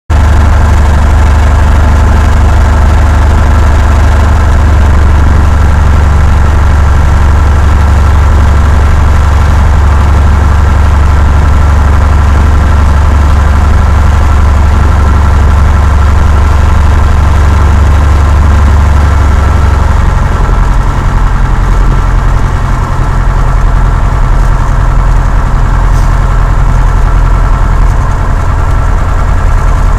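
Cessna 172's piston engine and propeller running at a loud, steady drone. The engine note changes about two-thirds of the way through.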